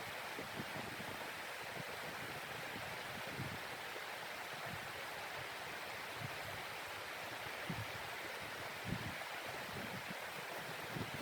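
Steady rushing blizzard wind, with occasional soft low thumps.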